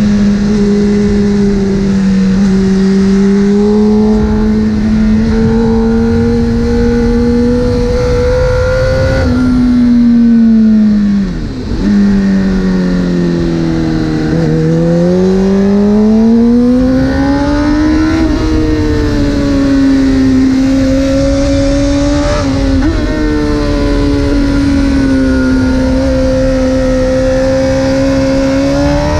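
2009 Honda CBR600RR's inline-four engine running at speed through a full titanium Arrow exhaust. It holds steady revs, drops in pitch about ten seconds in as the throttle is closed, rises steadily again under acceleration, then settles to a steady pitch.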